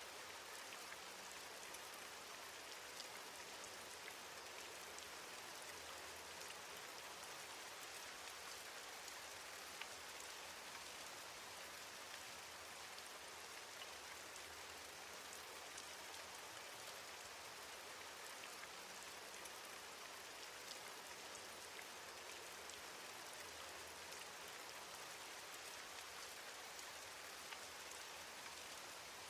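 Steady, soft rain, with a constant hiss and small drop ticks scattered through it.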